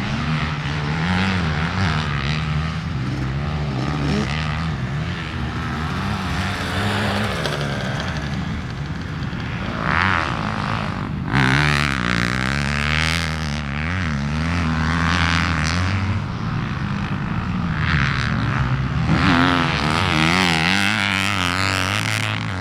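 Motocross dirt bike engine revving up and down repeatedly as it is ridden around the track, with rushes of noise about ten and about nineteen seconds in.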